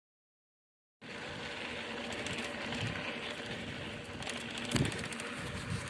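Steady rushing noise of wind from an approaching sandstorm, starting about a second in, with a few brief knocks near the end.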